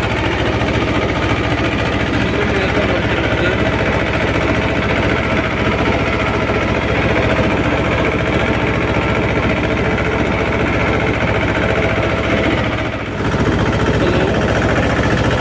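Mahindra 24 HP mini tractor's diesel engine running steadily close by, with a rapid even firing beat; the sound dips briefly about thirteen seconds in, then carries on.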